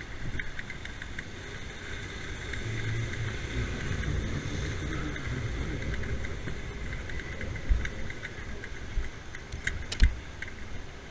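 Motorbike engine running while riding, with a steady low rumble and scattered small clicks, and a sharp knock near the end.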